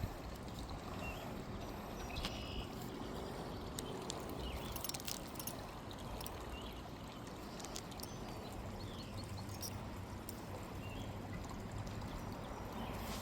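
Creek water running and trickling steadily, with short high chirps recurring every second or two and a few faint clicks near the middle.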